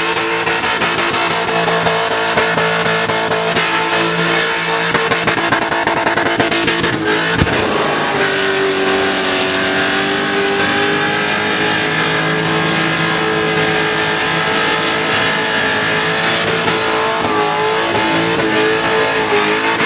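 Supercharged Holden Commodore ute's engine held at high revs through a burnout, with the rear tyres spinning on the pavement. The revs dip briefly about seven seconds in, then climb back and hold steady.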